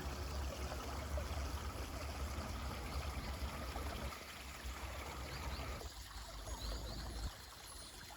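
Mountain stream running steadily, with a few faint high bird chirps in the second half.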